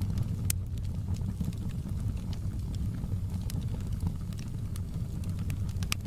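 Logs burning in a fireplace: scattered sharp crackles and pops over a steady low rumble of the fire, with a loud pop about half a second in and another near the end.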